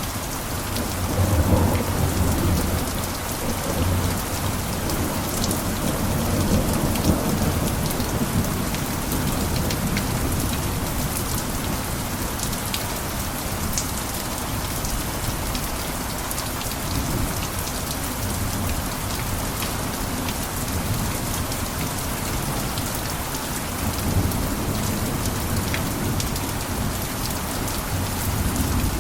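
Steady heavy rain pattering on a roof, with fine drops crackling throughout. A low rolling rumble swells in the first few seconds and again near the end.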